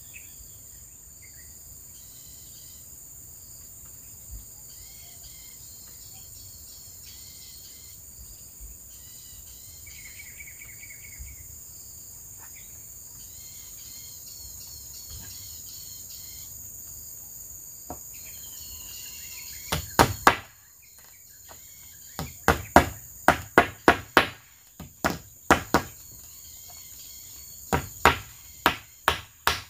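Insects buzzing steadily with occasional bird chirps. About two-thirds of the way through, a run of sharp knocks begins, coming in quick clusters of a few strikes each and much louder than the insects, like a hammer striking wood.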